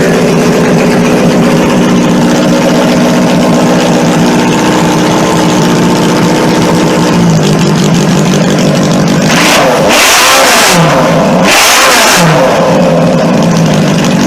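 Modified garden tractor engine running steadily, then revved in two short bursts about nine and eleven seconds in.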